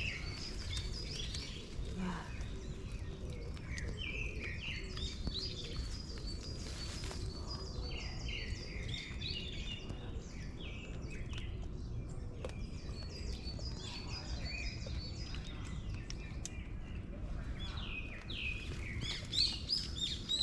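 Several songbirds chirping and singing in short, overlapping phrases, over a steady low rumble.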